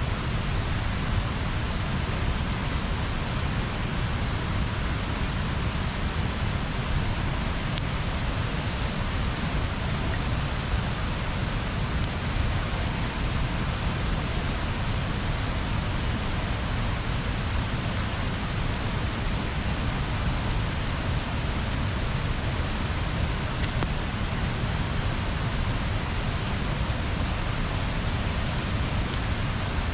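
Bonfire burning: a steady rushing noise with a few faint single pops from the fire.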